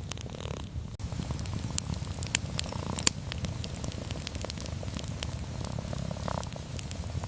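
A cat purring steadily, a low pulsing rumble, with sharp crackles and pops from a wood fire; the loudest pops come a little past two and three seconds in.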